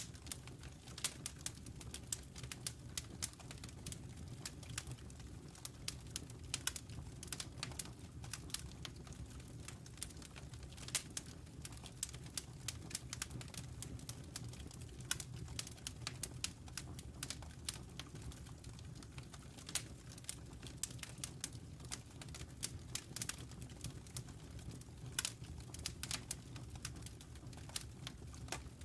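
Wood fire burning in a fireplace: irregular sharp crackles and pops of the logs, several a second, over a steady low rumble of the flames.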